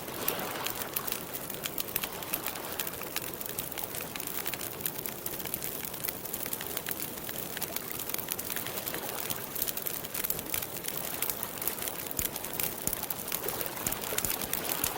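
Campfire crackling: a continuous run of sharp pops and snaps over a soft steady hiss.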